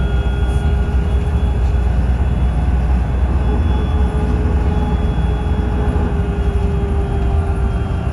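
Trolleybus running, heard from inside: a steady low rumble with a faint, steady electric motor whine.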